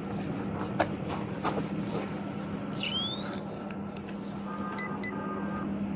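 Steady low hum of an idling vehicle engine with scattered clicks, a thin whistle rising in pitch about three seconds in, and a few short electronic beeps near the end.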